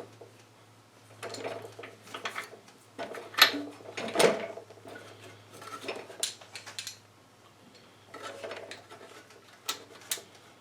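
Hand tools clinking and clattering against metal while a spark plug is being replaced on a small snowblower engine, with two sharper knocks about three and a half and four seconds in, over a faint steady hum.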